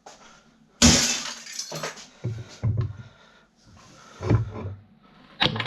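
Metal scrap parts from stripped fan motors dropped onto a pile, a loud clatter about a second in, followed by a few quieter knocks and handling sounds.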